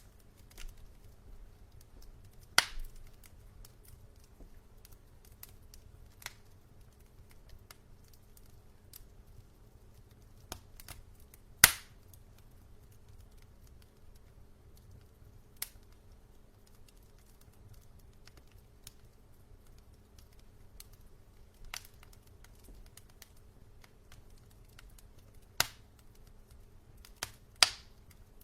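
Wood logs burning in a fireplace, giving sharp crackles and pops every few seconds, with several louder pops, over a low steady background.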